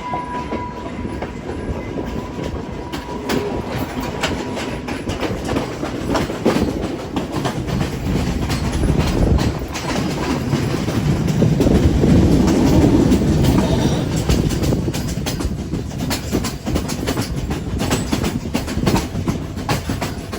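Train running along the line: a continuous rumble with wheels clicking rapidly over the rail joints, swelling louder around the middle.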